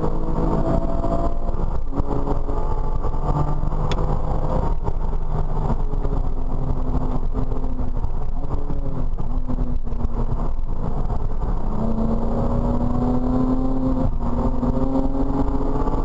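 Porsche Cayman R's flat-six engine heard from inside the cabin at track speed, its note climbing with the revs and dropping back at each gear change, easing and wavering in the middle, then pulling up strongly again near the end, over heavy road rumble.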